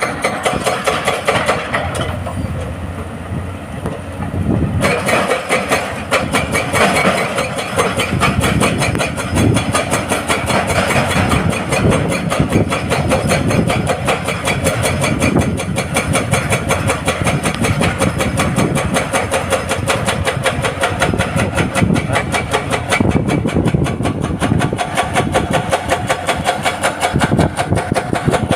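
Excavator-mounted hydraulic breaker hammering rock in rapid, even blows over the running diesel engine. The hammering starts about five seconds in.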